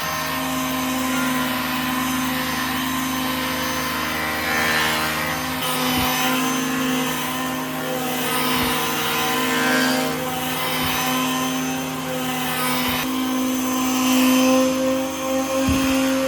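An electric power tool's motor running steadily, with a few brief low thumps.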